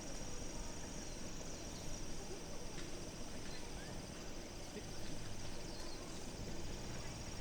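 Insects, crickets or similar, chirring in a continuous high-pitched trill over low, even background noise.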